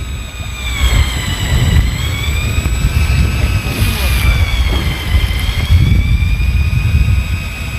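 Wind buffeting the microphone on a fishing boat at sea, a steady low rumble, over a faint high whine that slowly wavers in pitch.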